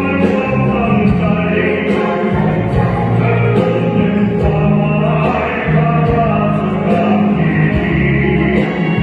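Recorded Thai song with sung vocals over instrumental accompaniment and a steady beat, played as music for an interpretive dance.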